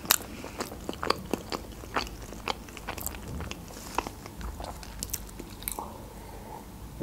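Close-miked chewing of food, with irregular wet mouth clicks several times a second, thinning out about six seconds in as she drinks from a cup of ayran.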